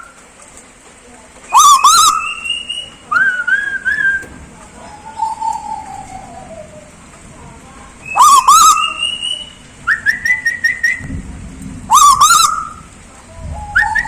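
A tuwu bird and a person whistling trade a series of loud whistled calls every second or two. Some notes are short, rising and harsh-edged; others waver or glide slowly downward.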